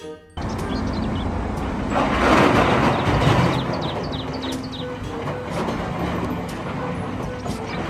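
A rumbling, vehicle-like noise with faint clicks, starting suddenly and loudest about two to three seconds in, then easing slightly.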